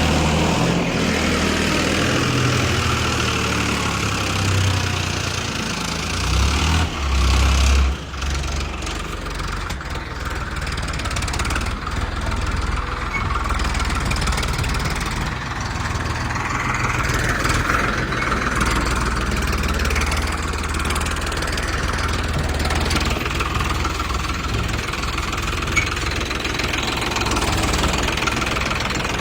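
Mini tractor engine running steadily with a low, even hum, louder and unsteady for a moment about seven seconds in.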